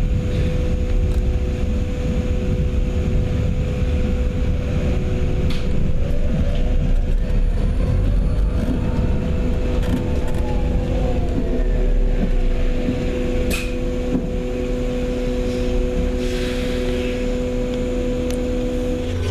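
A vehicle running, heard from on board: a steady low rumble with two steady humming tones. A whine rises and then falls about halfway through.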